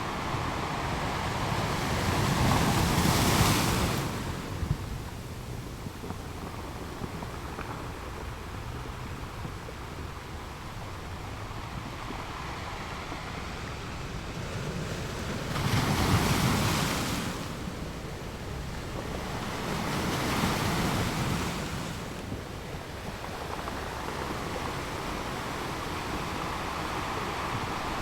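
Ocean waves breaking and washing on a shore, a steady surf hiss with three louder waves crashing, one a few seconds in and two more in the second half.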